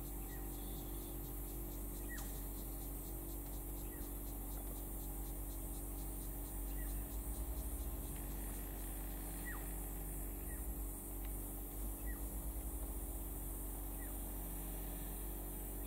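A bird repeating a short, falling whistled note about every two seconds, over a steady low hum.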